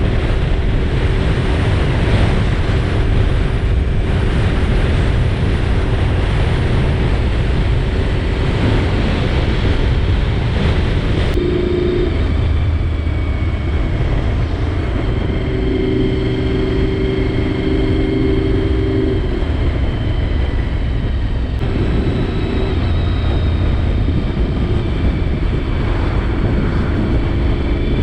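Honda VFR 750's V4 engine running under way, with wind rushing over the helmet microphone. The wind is heaviest for the first third, then eases and the engine hum comes through more clearly.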